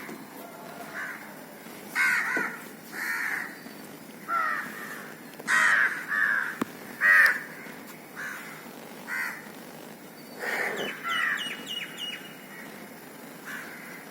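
A crow cawing again and again: about a dozen short calls spaced a second or so apart. A quick run of thin, high chirps comes about eleven seconds in.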